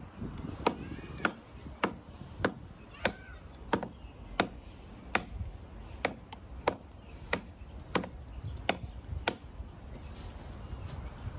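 A blade chopping into wood in steady, evenly spaced strikes, about one every two-thirds of a second and roughly fourteen in all, stopping about nine seconds in. This is cutting all the way through the vines growing on a tree trunk to free the tree.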